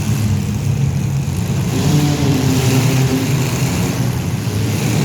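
Compact-car engines running and revving, pitch shifting as the throttle changes and louder from about two seconds in.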